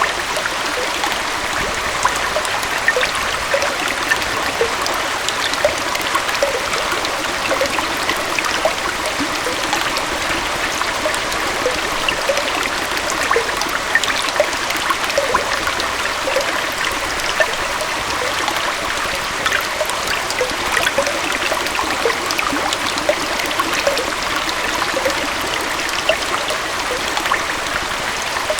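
Small forest waterfall and stream flowing steadily: an even rush of water with many small splashes and bubbling plinks through it.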